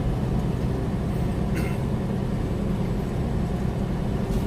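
Cab interior noise of a loaded semi truck cruising on the highway: a steady low engine drone over road noise, with one brief tick about a second and a half in.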